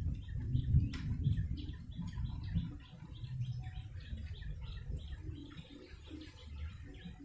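Prenjak lumut chirping: a fast run of short, high chirps, several a second. A low rumbling noise lies under them, loudest in the first two to three seconds and then dying away.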